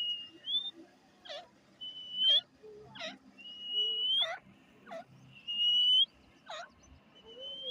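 Grey francolin (teetar) calling: a series of drawn-out whistles, each rising in pitch at its end, about every one and a half to two seconds, alternating with short, sharp notes that drop steeply in pitch.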